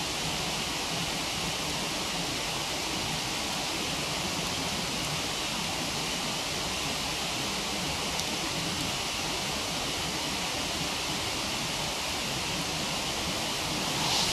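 Steady rushing of a waterfall with a wood campfire burning close by. There is one short louder hiss just before the end.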